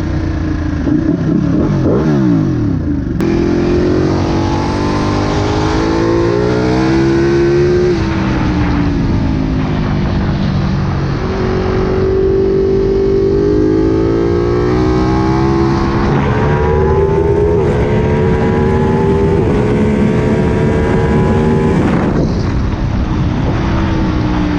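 Ducati Panigale 959's L-twin engine through a Danmoto stainless slip-on exhaust with titanium mufflers and the catalytic converters deleted. It is running under varying throttle, its pitch climbing and falling several times.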